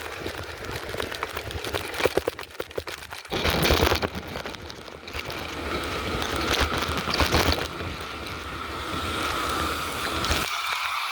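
Riding a bicycle: wind buffeting the microphone, with the bike rattling and clicking over the ground and a loud gust about three seconds in.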